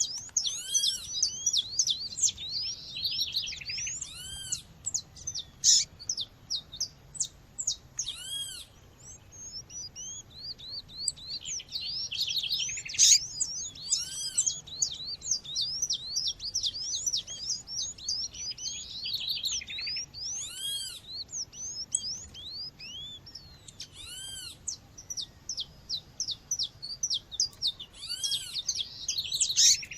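A female seedeater (coleiro or papa-capim) calling: a short arched note that repeats about every four seconds. It sits over a dense, unbroken background of quick high chirps from other birds in a nature recording.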